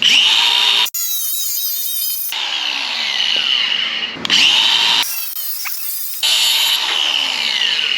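High-speed power tool cutting the mounting block off a replacement mirror, a steady high-pitched whine that changes abruptly several times and dips in pitch now and then under load.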